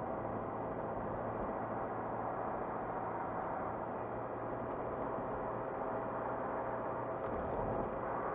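A car driving steadily: even engine hum mixed with tyre and road noise.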